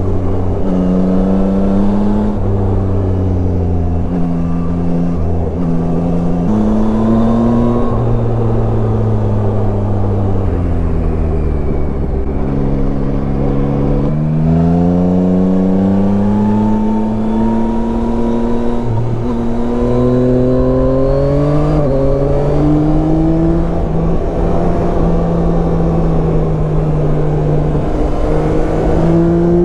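Yamaha Tracer 9's 890 cc inline-three engine under way, its pitch climbing through the gears with sudden drops at each upshift. It winds down as the bike slows about halfway through, then pulls up through the gears again, over a steady rush of wind noise.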